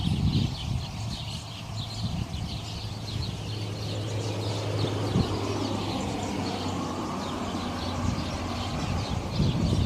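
Many nesting birds chirping constantly in quick short calls, a busy colony, with the low hum of a vehicle rising and passing through the middle.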